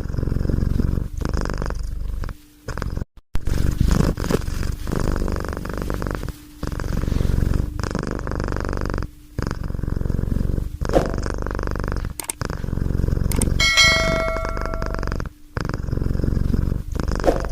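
Domestic cat purring close up, in runs of one to two seconds broken by short pauses as it breathes in and out. About three-quarters of the way through, a brief ringing ding sounds over the purr.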